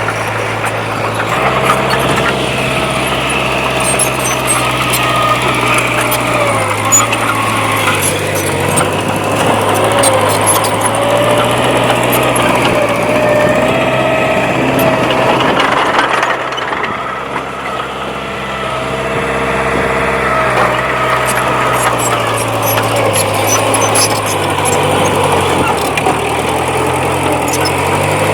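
Heavy diesel engine of earthmoving machinery running under load, its pitch stepping up and down several times as the throttle and load change, with a short drop in loudness about two-thirds of the way through.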